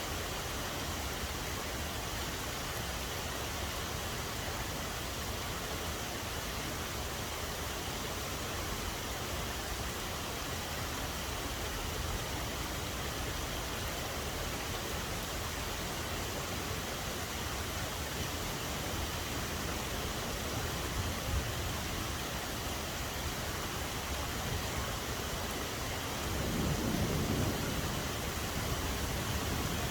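Steady rain falling, an even hiss. A low rumble swells briefly near the end.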